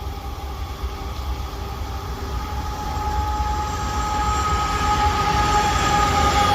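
CN freight train approaching, its sound growing steadily louder, with a steady high-pitched whine over a low rumble.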